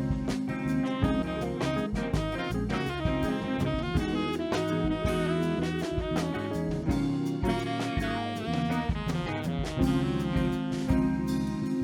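Live band playing an instrumental passage between sung lines: a saxophone carries a moving melody over drum kit and bass.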